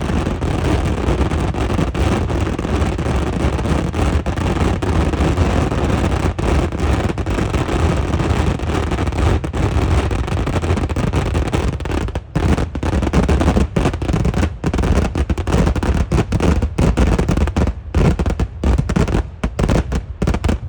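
Eeduvedi fireworks barrage, a dense, continuous rumble of overlapping bangs. From about halfway through, it thins into rapid separate explosions with short gaps between them.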